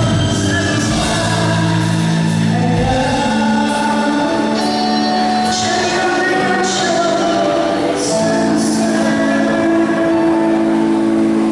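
A singer performing a Mandarin pop song with a live band, held notes over the accompaniment, with sharp high hits recurring every second or so.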